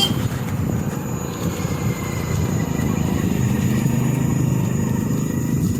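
Ola S1X 3 kW Gen 2 electric scooter riding slowly at about 13–14 km/h: steady rumble of wind and road noise with a faint thin motor whine. It is a test for a reported 'yu yu yu' noise from the motor at this speed, which the rider himself does not notice.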